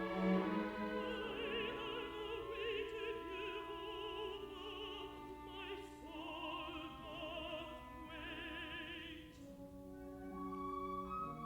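A contralto singing held notes with wide vibrato over orchestral accompaniment. The voice stops about nine seconds in and the orchestra carries on alone.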